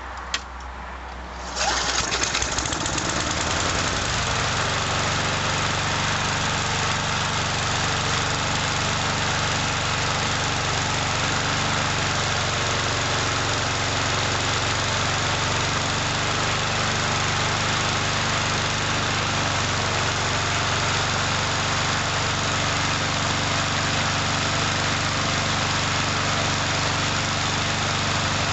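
Briggs & Stratton lawn mower engine pull-started cold after a couple of months unused. It catches on the first pull about a second and a half in and runs steadily.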